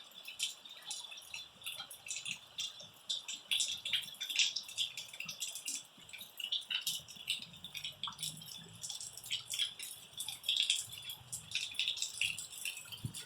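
Rain falling: many irregular drops pattering and dripping, a dense crackle of small ticks.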